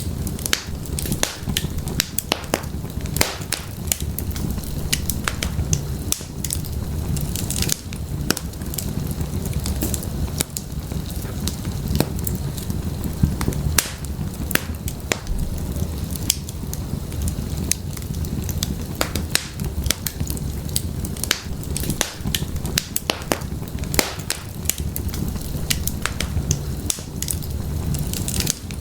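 Wood fire crackling in a fireplace: irregular sharp pops and snaps over a steady low sound of burning.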